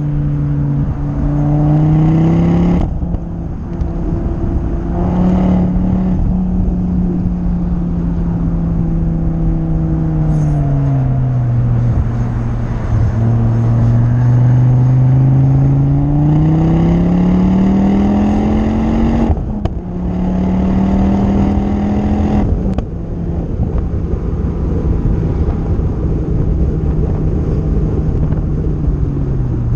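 Ford Focus ST's 2.5-litre turbocharged five-cylinder engine driven hard on a track lap, heard from on board: the engine note falls as the car slows for a corner, climbs again under acceleration, and drops in pitch after brief breaks at upshifts near the end, over wind and tyre noise.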